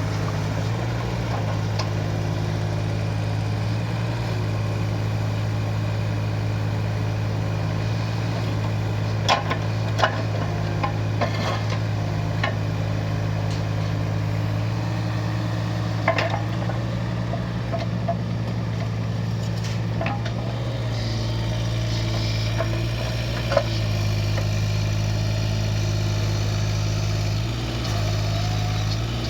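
Kubota U17-3 mini excavator's small three-cylinder diesel engine running steadily. A handful of sharp metallic knocks come about a third of the way in and again near two-thirds, and the engine note shifts a little after about 21 seconds.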